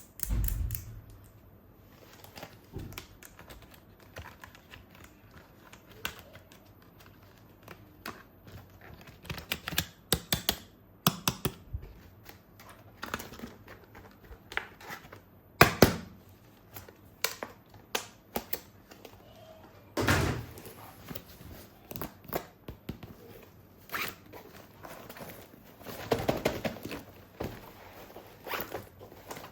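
Plastic toy gun parts and packaging being handled: irregular clicks, knocks and thunks with some rustling and crinkling, louder in a few clusters.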